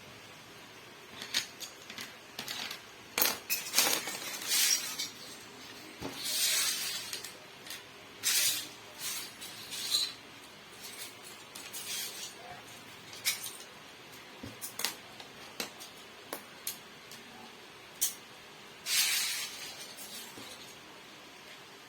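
Plastic Lego pieces clicking and rattling as they are handled and fitted together: scattered sharp clicks with short bursts of rummaging.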